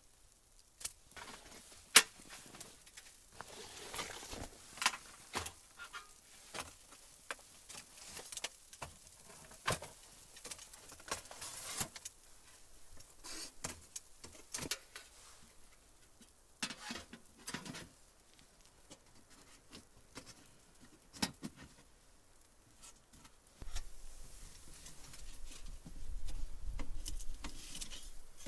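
Scattered light clicks, knocks and rustling, the sounds of handling gear, with a low rumble coming in near the end.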